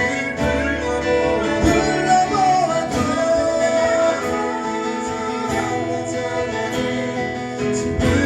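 Live band playing a slow ballad, with a vocal line over guitar accompaniment; a sung note slides down about two seconds in and is then held.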